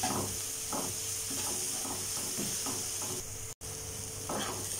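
Onion-tomato masala with ground spices sizzling in hot oil in a nonstick pan, stirred and scraped with a plastic spatula in repeated irregular strokes: the masala frying until the raw smell goes. The sound cuts out for a moment about three and a half seconds in.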